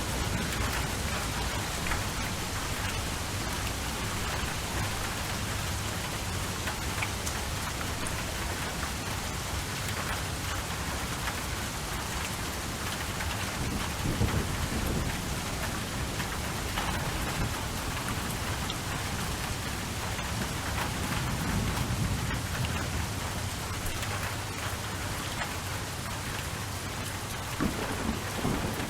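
Steady heavy rain falling, with low rumbles of thunder swelling up twice, about halfway through and again later.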